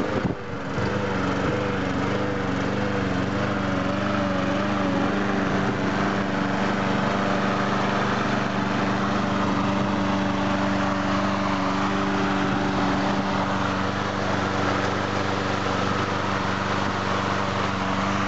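Yard Machines walk-behind lawn mower's single-cylinder Briggs & Stratton engine, cold-started after three primes, settling right after catching and then running steadily at an even speed.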